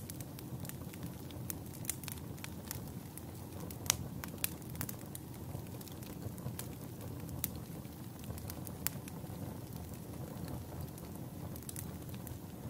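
Wood campfire burning with a low steady rush of flame and irregular sharp crackles and pops of the wood, one louder pop about four seconds in.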